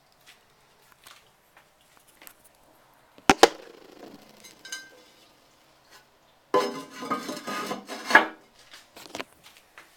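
Two sharp hard knocks in quick succession about a third of the way in. Then, a few seconds later, about two seconds of clattering that ends in one loud knock, with a few light clicks scattered around them.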